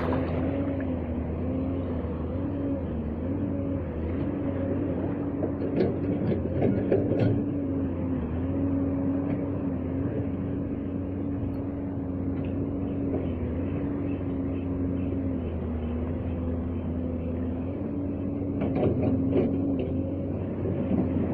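A boat's engine droning steadily, its pitch wavering slightly every few seconds, over a steady low rushing noise.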